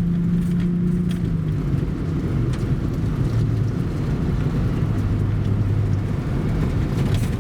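Truck camper driving on a dirt off-road trail: a steady engine drone with rumbling road noise and light rattles. About a second and a half in, the engine note drops to a lower pitch and holds there.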